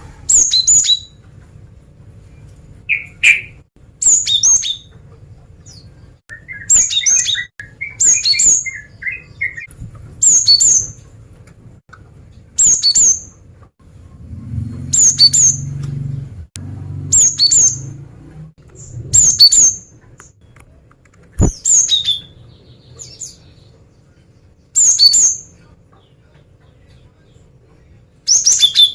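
Female cinereous tit (gelatik batu) calling to attract a male: short, sharp, high call notes repeated about a dozen times, one every second or two, with some softer lower twittering early on. A low rumble comes in around the middle, and there is a single sharp click a little later.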